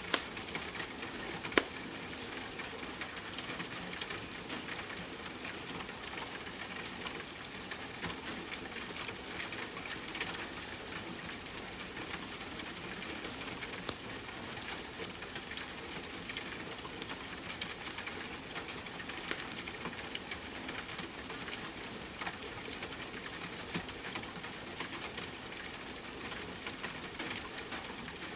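Steady rain hiss with a wood fire crackling throughout, sharp pops scattered through it and a few louder ones standing out.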